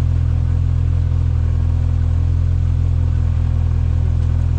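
Off-road vehicle engine running steadily at low revs, a constant low drone while crawling along the trail.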